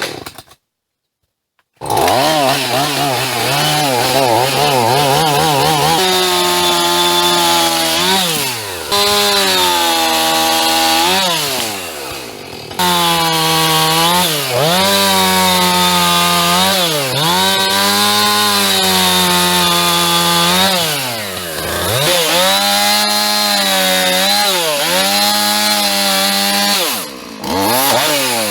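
Two-stroke chainsaw starting a couple of seconds in, warbling unsteadily at first, then running at high revs with the pitch repeatedly sagging and recovering as it cuts through tree branches.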